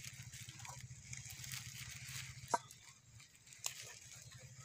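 Pav buns frying in oil in a small pan over a wood fire: a faint sizzle and crackle, with a low hum underneath and two sharp clicks, about two and a half and three and a half seconds in.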